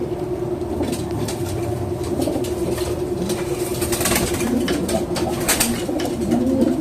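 Pigeon cooing in low, rolling coos, with a brief flurry of rustling about four to five seconds in.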